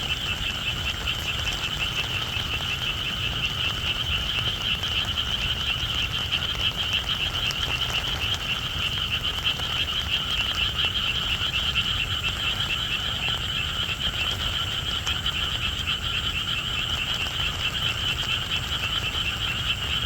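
A dense chorus of many frogs calling at once, a steady, fast-pulsing high-pitched trilling that never lets up.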